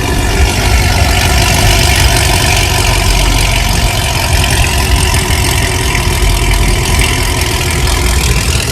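A car engine running steadily and loud.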